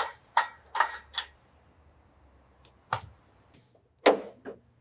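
Sharp metallic clinks and knocks of hand tools on exhaust hardware as a new muffler is fitted and tightened: four quick strikes in the first second and a half, then a few more spaced out towards the end.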